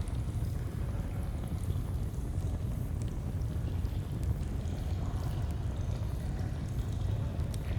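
Steady rushing of a flowing stream, with faint, scattered crackles from a campfire.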